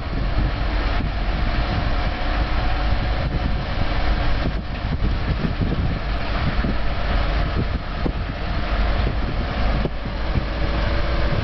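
Loud, steady vehicle rumble, heavy in the low end.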